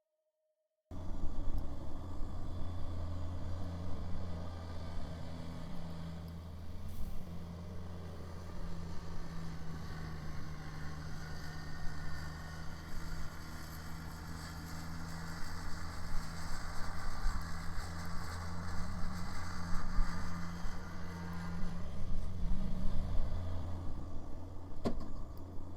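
Kubota BX sub-compact tractor's three-cylinder diesel engine running steadily with its rear-mounted snow blower working, a constant low drone that starts about a second in. A brief click sounds near the end.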